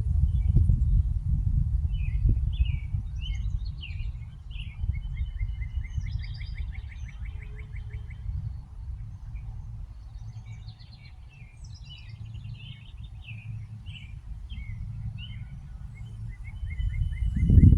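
Small birds chirping and twittering in quick, trilled series over a steady low rumble. The rumble eases through the middle and grows loud again near the end.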